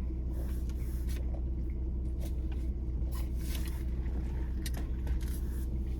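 Steady low rumble inside a car's cabin, typical of the engine idling, with a few short soft clicks and crunches over it.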